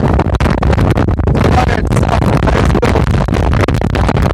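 Strong wind buffeting the microphone: a loud, gusting rush, heaviest in the low end.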